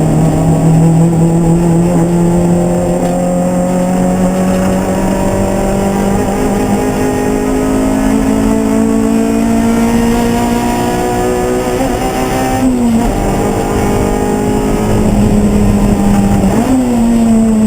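Race car engine running at high revs, its note climbing slowly and steadily. About 13 s in the revs drop briefly before climbing again, and near the end they jump up suddenly and then fall away.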